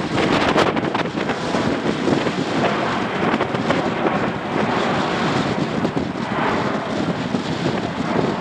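Strong gusty wind buffeting the microphone, a loud rough rushing that swells and dips.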